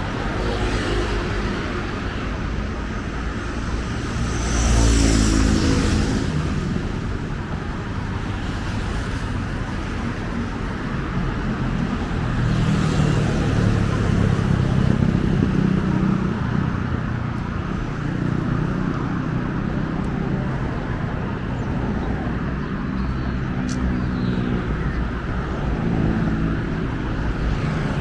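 Roadside city traffic: a steady hum of engines and tyres, with a vehicle passing close about five seconds in, its engine note falling as it goes by, and more vehicles going past later.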